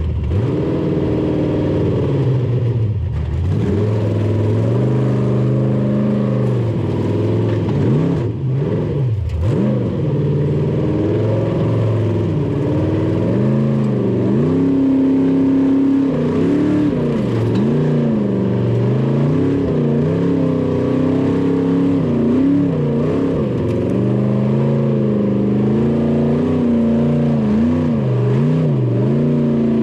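Formula offroad racing car's engine revving hard, its pitch climbing and dropping again and again as the throttle is worked. There are sharp dips at about three and nine seconds in, and quicker up-and-down swings in the second half.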